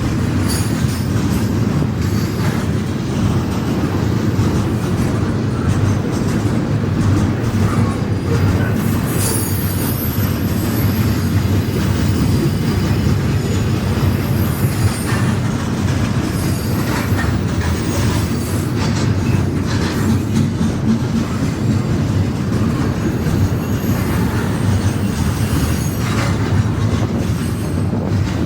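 Intermodal freight train's cars rolling past at close range: a steady, loud rumble with the clatter of wheels over rail joints and occasional high wheel squeal.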